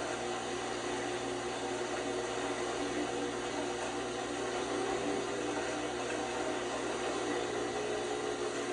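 LG washing machine running mid-cycle: a steady, even mechanical hum and whirr with no thumps or changes.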